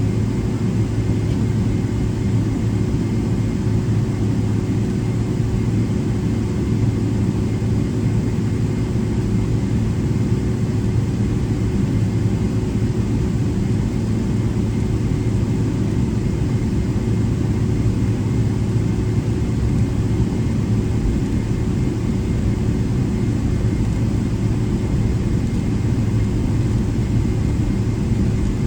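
Steady cabin noise inside a Boeing 777-300ER taxiing with its GE90-115B engines at idle: an even low rumble with a faint steady hum over it.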